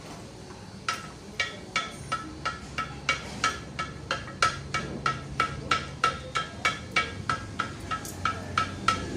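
Hand hammer blows on a steel anvil, about three a second, each ringing with a clear tone, starting about a second in. This is the hand forging of a Damascus steel billet.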